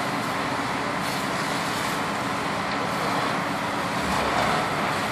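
Steady road traffic noise: motor vehicles running and passing on the road.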